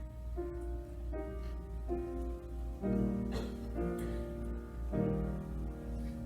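Slow keyboard music, with a sequence of sustained chords changing about once a second, over a steady low hum.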